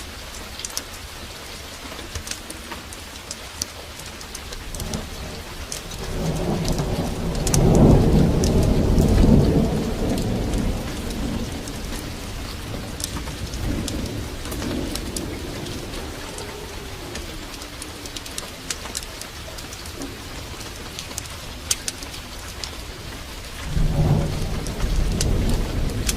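Heavy rain falling steadily with scattered sharp ticks, and thunder rumbling: one long roll building from about six seconds in, loudest around eight to ten seconds, then fading, and a second rumble starting near the end.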